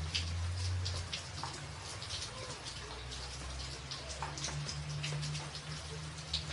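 Rain on a tin roof: separate drops ticking sharply and irregularly over a steady hiss of rainfall, with a low steady rumble underneath.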